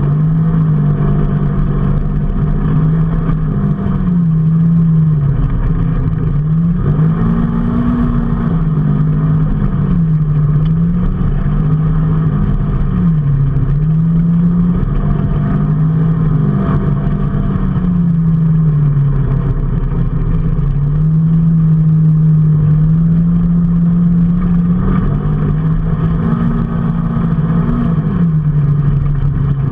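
A motor vehicle's engine running under way, its pitch rising and falling every few seconds as it speeds up, shifts and slows, over a steady rumble of road noise.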